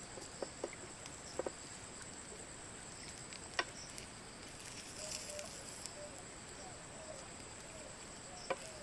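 Forest insects keeping up a faint, steady, high-pitched drone, with a few sharp clicks or taps scattered through it, the loudest about three and a half seconds in and just before the end. Faint short chirping notes come in during the second half.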